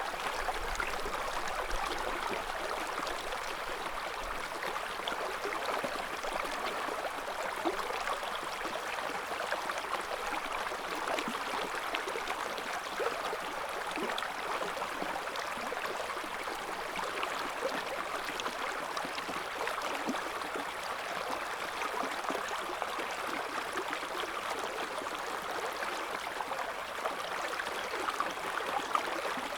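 A river's shallow current running steadily, with a continuous babble and gurgle of water over stones.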